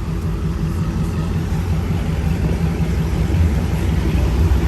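Deep, steady V8 muscle-car engine rumble, getting a little louder toward the end.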